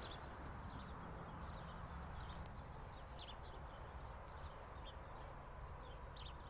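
Faint outdoor background: a steady low rumble with a few short, high chirps scattered through it.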